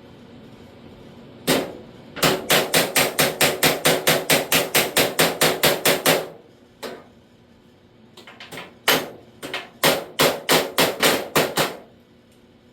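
Body hammer striking the steel edge of a lower door skin against a dolly, knocking the edge down. One blow, then a fast steady run of about four to five blows a second for some four seconds, and after a pause a looser run of blows.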